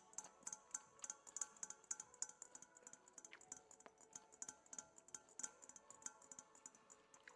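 A quiet, irregular run of light clicks and taps, several a second, like typing, over faint background music.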